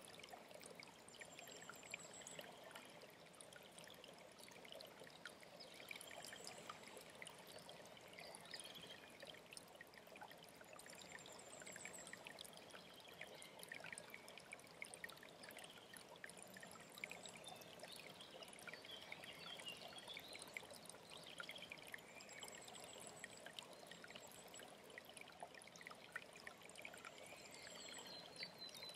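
Faint steady trickling and splashing of a mountain stream, with small songbirds singing short high trilled phrases about every five seconds and scattered chirps in between.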